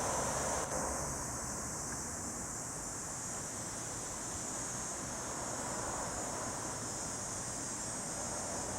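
Steady outdoor ambience: a continuous high-pitched hiss over a low, wind-like rumble, with a brief dropout about a second in. No bird calls stand out.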